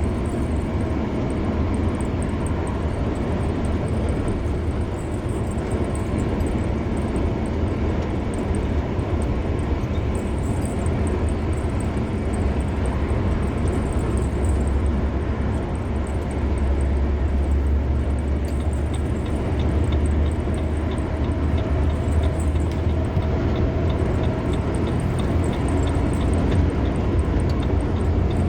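Steady road noise of a car driving on a highway: a low rumble of engine and tyres, which swells a little past the middle. A faint, regular ticking joins in during the last third.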